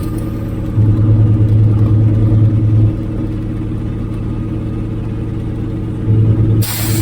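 Antonov An-2's nine-cylinder radial engine running steadily, louder from about one to three seconds in and again briefly near the end, with a short hiss just before the end.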